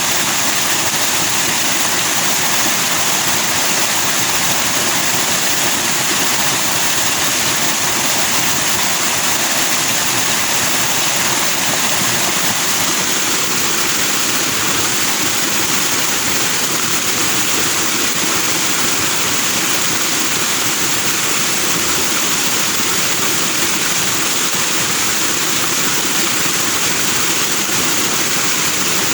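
Forest stream rushing over rocks with white foam, a steady full hiss of running water.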